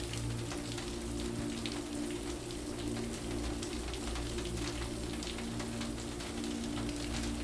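Steady rain falling, with many small drops ticking, under calm music of low, sustained held notes.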